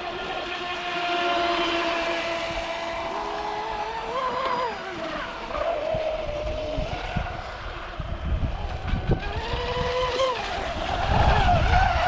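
Radio-controlled boat motors running, their whine rising and falling with the throttle, twice. A low rushing noise builds near the end.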